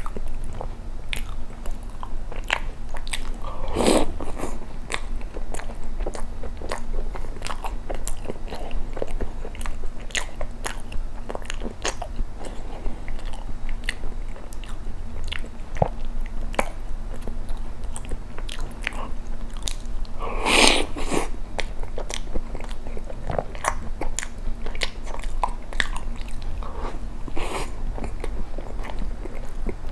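Close-miked chewing of milk-soaked matcha cream bread: a steady run of wet mouth clicks and smacks. Two louder mouth sounds stand out, about 4 and 20 seconds in.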